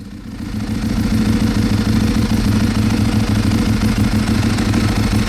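Ducati 848 race bike's V-twin engine idling steadily. It comes up over the first second, then holds an even, pulsing note.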